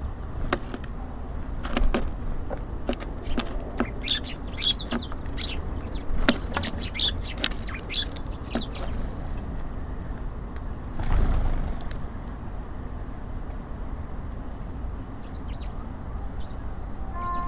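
Small birds at a bird feeder chirping in short high calls, with many sharp taps through the first half. A brief rush of noise comes about eleven seconds in, over a low steady background rumble.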